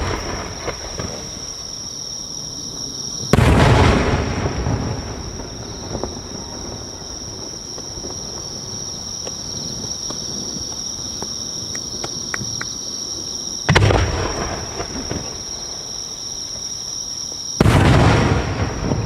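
Fireworks: No. 5 (15 cm) aerial shells bursting overhead, three loud booms each followed by a rolling, rumbling echo, with a few faint crackles in between.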